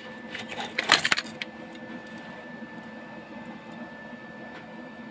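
A brief burst of clinking, rattling clatter about a second in, then a steady machine hum with a faint high whine.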